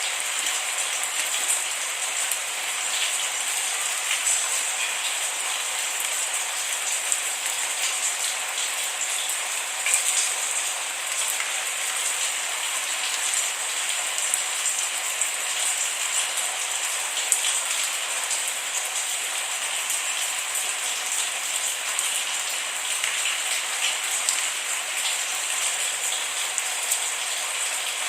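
Steady rain falling on a surface, a dense even hiss speckled with the small ticks of individual drops, with no thunder.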